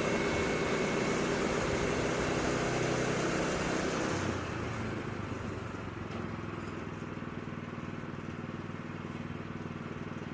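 Sawmill's engine running steadily. A loud hissing layer on top of it drops away about four seconds in, leaving the engine running more quietly.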